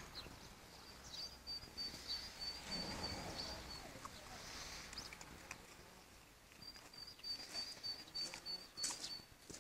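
A small bird calling twice in runs of quick, high, evenly repeated notes, each run lasting a couple of seconds, over faint outdoor noise. Soft scuffs and rustles of puppies moving about on grass.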